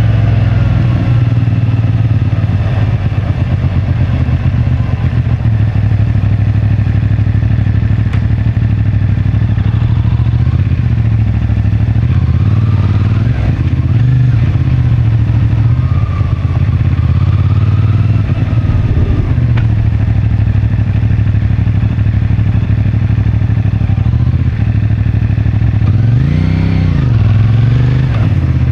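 CFMoto 450MT's parallel-twin engine with stock exhaust running steadily at low city speed, the pitch shifting a little as the throttle changes, then one quick rev that rises and falls near the end.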